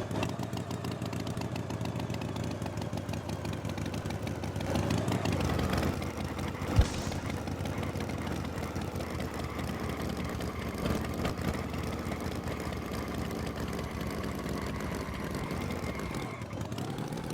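An engine running steadily at a low, even pitch, with one sharp knock about seven seconds in.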